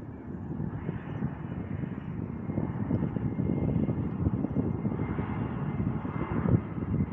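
Jet aircraft engines rumbling, growing gradually louder.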